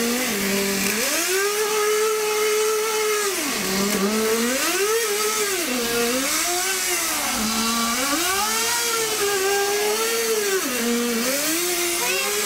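Kyosho Nitro Blizzard RC model's small nitro glow engine revving up and down again and again, dropping back toward idle between bursts of throttle, about five times.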